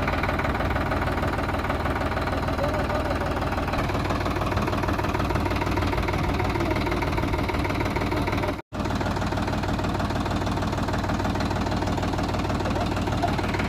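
Tractor diesel engine running steadily, with a brief dropout to silence about two-thirds of the way through.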